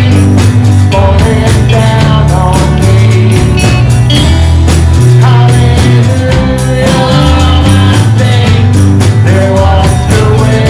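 Live worship band playing with a steady beat: bass, guitar and drums with tambourine, and singing.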